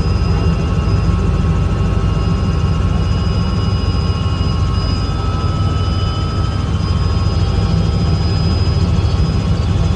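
Helicopter running steadily: a loud low rumble from the engine and rotor, with a steady high turbine whine over it.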